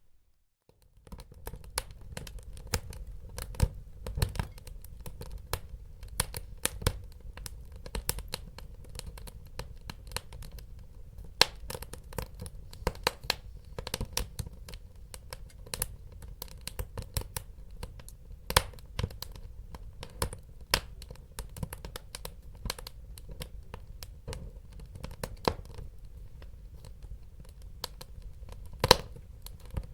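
Wood fire burning in a fireplace: irregular crackles and sharp pops of wood over a low steady rumble of the flames. The fire sound starts about a second in, after a brief silent gap.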